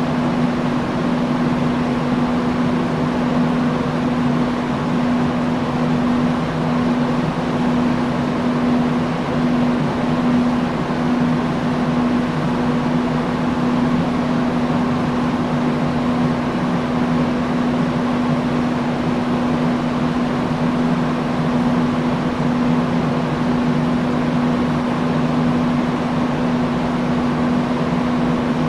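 Industrial fan running steadily: a constant rush of moving air over a steady motor hum.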